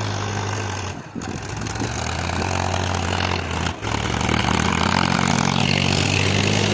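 Tractor engine running steadily, with two brief drops in level, about a second in and near four seconds.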